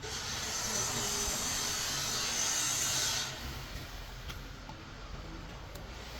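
A loud hiss lasting about three seconds, then it stops, leaving a low steady background noise.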